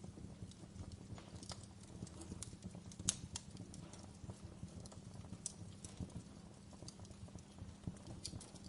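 Wood fire burning in a fireplace: a steady low rumble of the flames with irregular sharp crackles and pops, one louder pop about three seconds in.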